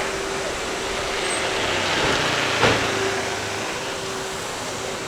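A motor vehicle passing by on a city street. Its noise swells to a peak about two and a half seconds in, where there is a short sharp knock, then fades away.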